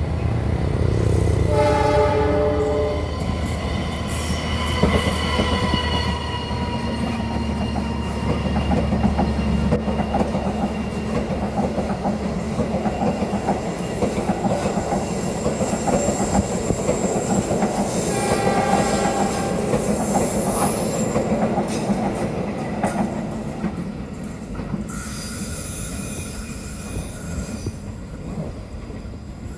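A long train passing a curved level crossing at speed. The locomotive's horn sounds briefly about two seconds in, and its deep engine rumble fades after ten seconds or so. Then a long rolling clatter of the cars follows, with high steady wheel squeal from the curve, thinning out near the end.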